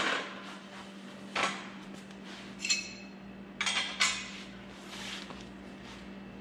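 Metal clanks and rattles, a few separate knocks with a short ringing clink, as a folded metal miter saw stand is handled and moved.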